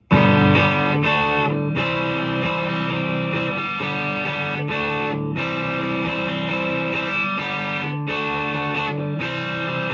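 PRS S2 Standard 24 electric guitar on its neck humbucker, played through the classic gain channel of a Marshall amp: ringing chords with a light overdrive, broken by short gaps between phrases.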